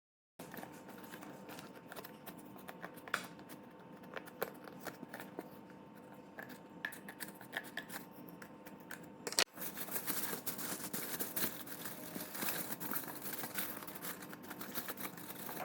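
Irregular clicks, snips and rustling from close handling work over a faint steady electrical hum. The sound starts abruptly and jumps louder and busier at a sudden break about halfway through.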